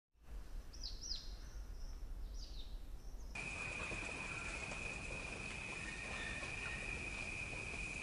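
Wild bird calls: two quick bursts of high, downward-sweeping whistled notes over a low rumble. About three seconds in, the sound cuts to a steady, unbroken high-pitched insect drone with faint chirps beneath it.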